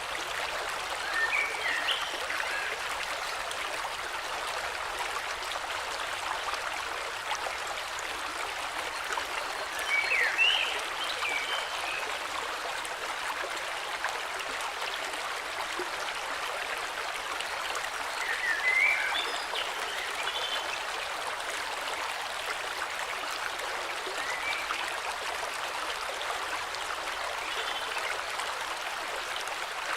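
Steady rush of a flowing river, with a short bird song phrase of a few quick chirps about every nine seconds.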